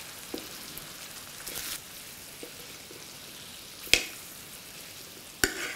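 Chicken pieces sizzling faintly and steadily on a hot tawa while masala is stirred in, with a metal spatula clinking sharply against the pan about four seconds in and again near the end.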